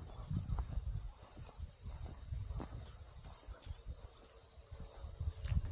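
Steady high-pitched chorus of crickets trilling, with an irregular low rumble underneath and a sharp click near the end.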